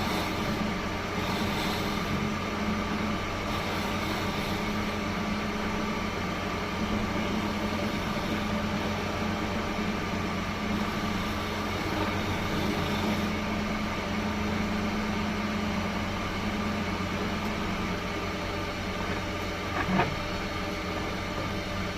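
Steady hum of a woodworking machine's electric motor running, with one short sharp knock about 20 seconds in.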